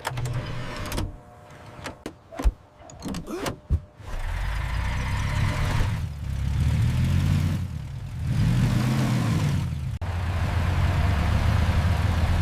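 A few sharp clicks and knocks, then from about four seconds in a vehicle engine runs steadily, its pitch rising and falling a couple of times.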